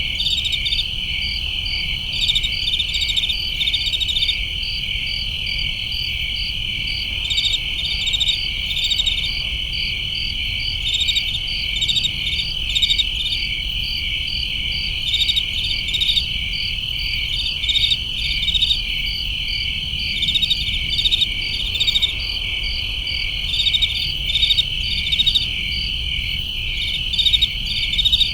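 A chorus of crickets: one steady high trill, with other crickets chirping in short repeated bursts every second or two, over a faint low rumble.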